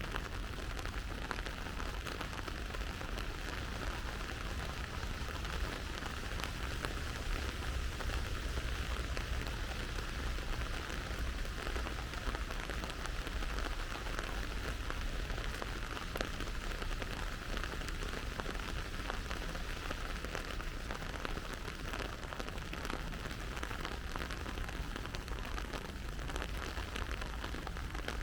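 Steady rain falling, with many individual drops pattering close by.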